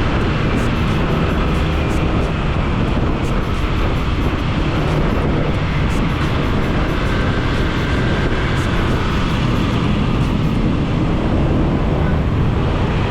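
Steady rush of wind and road noise on a motorcycle-mounted action camera's built-in microphone while riding, with the motorcycle's engine running underneath.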